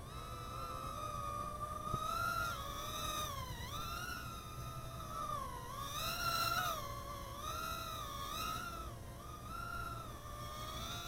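Micro quadcopter's tiny motors and propellers whining steadily, the pitch rising and falling as the throttle changes in flight, with a few quick dips.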